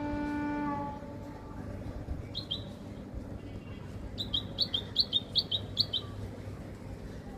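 A small bird chirping: a pair of short, high chirps, then a quick run of about eight double chirps. A steady held tone ends about a second in.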